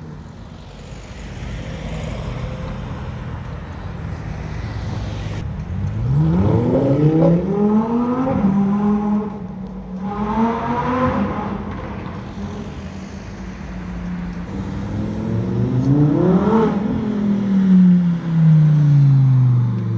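Sports cars accelerating through traffic: engine pitch climbs in a few rising runs, then a Lamborghini Huracán EVO Spyder's V10 revs up loudly and its pitch falls away as it drives past near the end.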